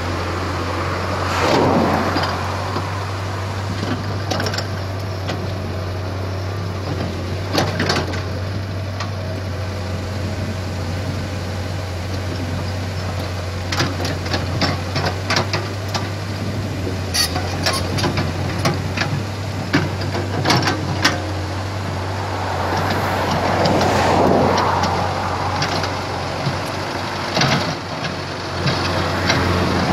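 Komatsu PC75 hydraulic excavator's diesel engine running steadily at work, with many scattered sharp knocks and clanks. The noise swells louder briefly near the start and again about three quarters of the way through.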